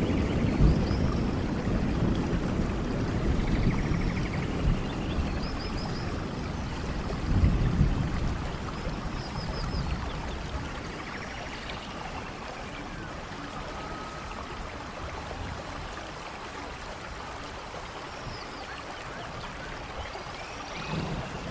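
Rain falling steadily in a rainforest thunderstorm, with low thunder rumbling that fades over the first half, a short rumble about seven seconds in, and more thunder building near the end. Faint high chirping calls sound now and then over the rain.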